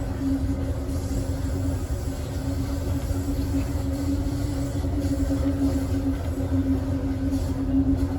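Amtrak Southwest Chief passenger car riding along the rails: a steady low rumble of the running train with a constant hum over it.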